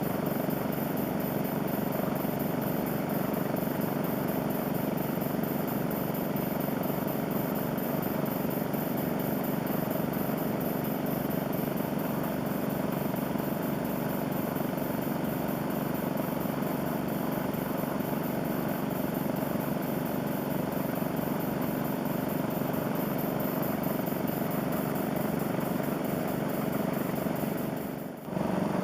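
Small model steam engine running on compressed air with a fidget-spinner flywheel, a fast, steady chuffing of exhaust air. The sound dips briefly near the end and then picks up again.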